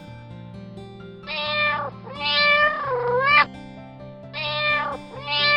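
Domestic cat meowing: two pairs of meows, each a short call followed by a longer one that dips in pitch and rises again. Soft background music plays underneath.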